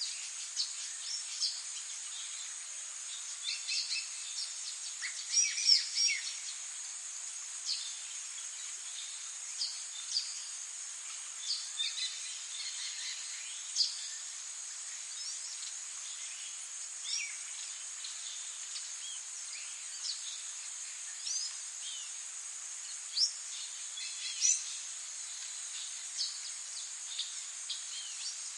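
Wild birds giving many short chirps and calls, scattered irregularly, the loudest clusters about five seconds in and near the end, over a steady high-pitched insect trill.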